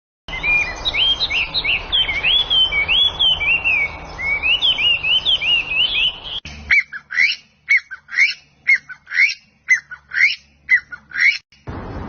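Bird song: a fast, continuous run of whistled notes sliding up and down in pitch over background hiss, cut off abruptly about six seconds in. A different recording follows, with a bird giving sharp separate calls, roughly two a second.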